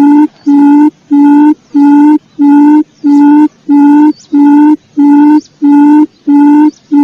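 Recorded quail lure call: a steady, evenly spaced series of short hooting notes, a little under two a second, each on the same low pitch. Faint, thin high chirps sound now and then between the notes.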